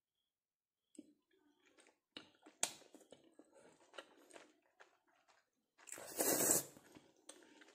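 Close-up chewing and wet lip-smacking as a person eats a sauce-coated mouthful, in scattered clicks and smacks. About six seconds in comes a short, loud breathy rush, the loudest sound here.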